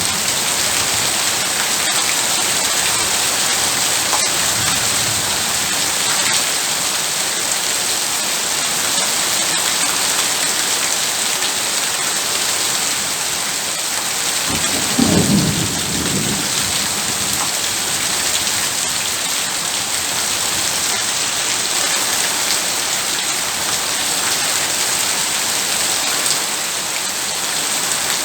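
Heavy rain pouring steadily, with a short low rumble of thunder about halfway through.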